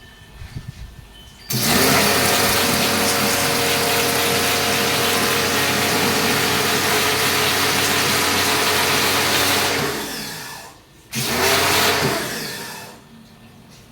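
An electric motor-driven machine running loudly and steadily for about eight seconds, then a second shorter run, each one winding down as it stops.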